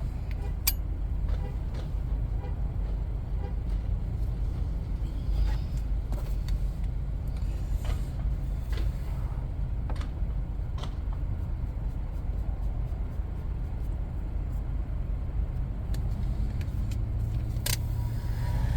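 A steady low rumble with scattered light clicks and scrapes from a spatula spreading filler compound on a vinyl car seat.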